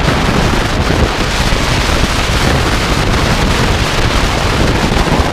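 Loud, steady wind noise rushing over the microphone of a motorcycle riding at speed, with road and engine noise mixed in underneath.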